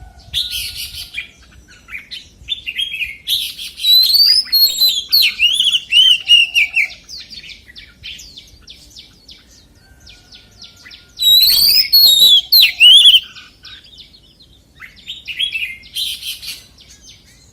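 Oriental magpie-robin singing: bouts of loud, sliding whistled phrases, with a run of rapid short clicky notes between them about halfway through.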